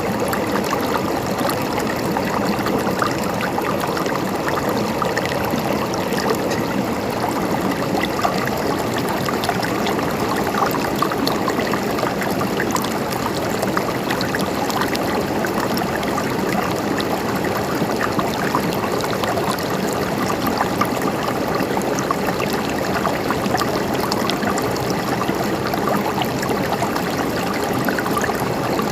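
A river flowing: a steady rush of water with small gurgles and splashes throughout.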